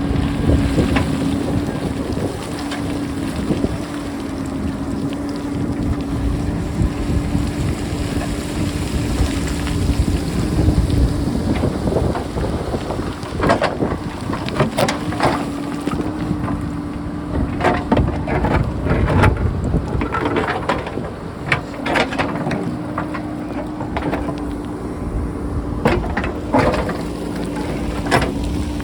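JCB backhoe loader's diesel engine running with a steady hum, wind buffeting the microphone. From about twelve seconds in, rocks clatter and knock repeatedly as the backhoe cuts into the rocky hillside.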